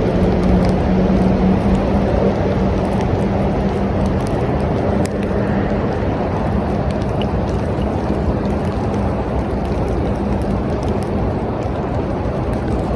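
Steady rain with a deep rumbling wash and scattered drop ticks. A steady low hum runs under it and fades out about ten seconds in.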